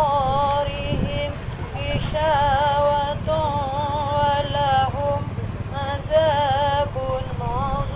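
Melodic Quran recitation: a high voice drawing out long, wavering, ornamented phrases with short breaks between them, over a steady low rumble.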